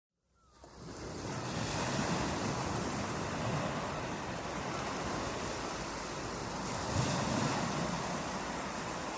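Steady rushing water sound fading in from silence over the first second or so, then continuing evenly with slight swells.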